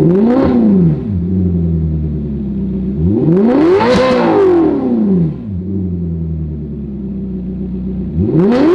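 Ferrari California's 4.3-litre V8 idling through an aftermarket titanium catback exhaust and being blipped: a short rev at the start, a bigger rev peaking about four seconds in, and another rev starting near the end, each rising and falling back to idle.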